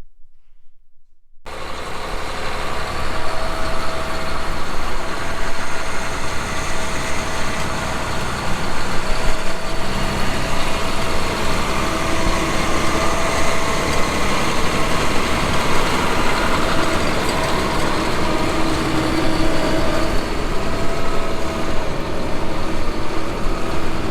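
Prinoth Bison X snowcat running steadily, its diesel engine rumbling with a steady whine over it; the sound starts suddenly about a second and a half in.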